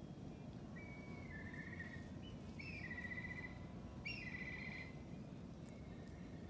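A bird calling, three trilled phrases of about a second each, with a fainter fourth near the end, over a steady low outdoor rumble.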